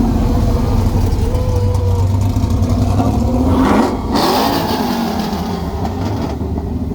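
Car engine running with a steady low rumble; a little past the middle its pitch climbs as it revs, then breaks off suddenly.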